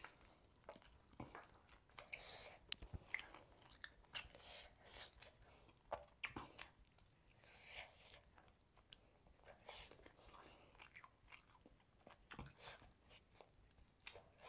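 A person chewing and biting into grilled chicken close to the microphone: irregular wet mouth clicks and smacks with some crunching.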